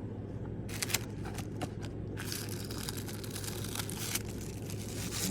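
Packaging crinkling as items are handled and unwrapped from a subscription box: a few light clicks about a second in, then continuous crinkling from about two seconds in, over a steady low hum.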